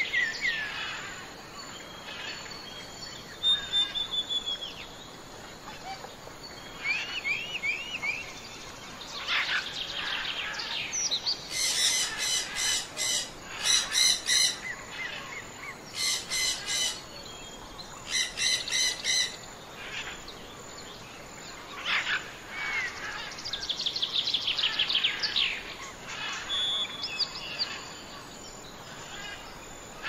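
Several wild birds calling and singing over a faint steady background hiss: short whistled notes, rising and falling glides and fast trills, with a loud series of repeated calls in the middle.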